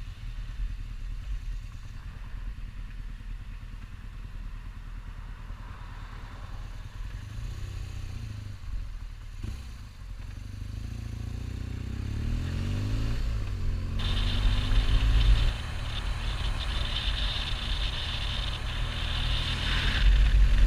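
Motorcycle engine running on the road. Its pitch rises several times around the middle as it accelerates, and a louder rushing noise joins about two-thirds of the way in.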